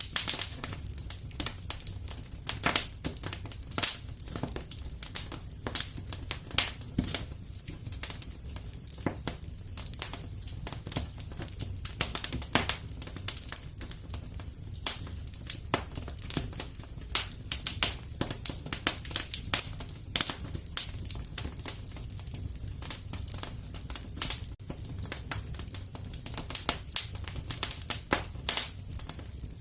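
Fireplace wood fire crackling: a dense, irregular run of sharp pops and snaps over a steady low rumble.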